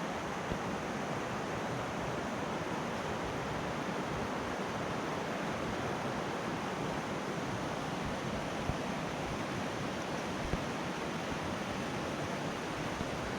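Steady rushing of water at the Putna waterfall, an even hiss without breaks.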